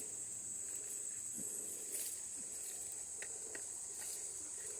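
Steady high-pitched buzz of an insect chorus in summer vegetation, with a few faint ticks scattered through it.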